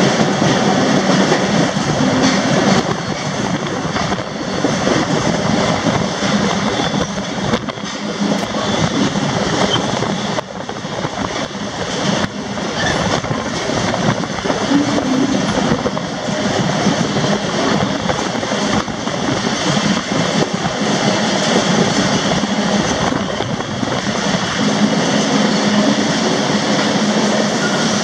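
Freight train rolling along, heard from aboard one of its cars: a steady loud din of steel wheels running on the rails, with the car clattering and rattling throughout.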